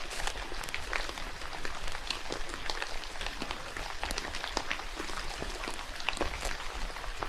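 Rain falling steadily, with many irregular drops tapping close by.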